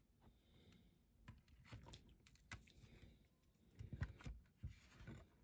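Faint, scattered small clicks and taps of a diecast model part being handled and pressed into place on its base, with a few sharper clicks about four seconds in.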